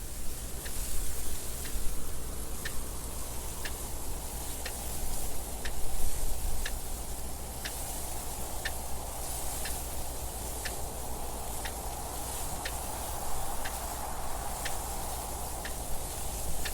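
A clock ticking steadily, about one tick a second, over a constant wind noise that has a low rumble and a hiss that swells and fades.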